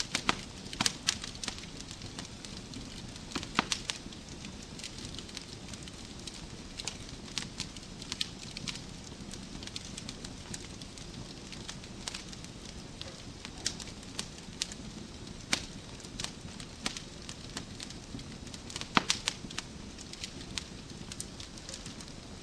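Wood fire crackling in a fireplace: irregular sharp pops and snaps over a steady low hiss, with a cluster of louder pops near the end.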